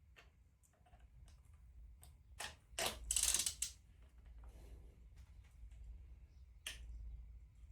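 Hand tools working on metal engine parts: scattered clicks and taps, a louder scraping, rattling burst about two and a half seconds in, and a sharp knock near the end.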